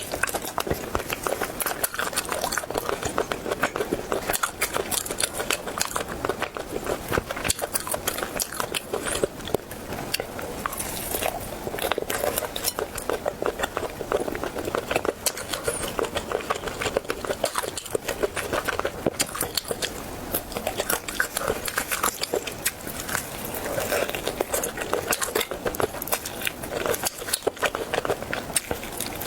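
Close-miked eating sounds: steady chewing and biting, full of small wet clicks and smacks, mouth close to the microphone.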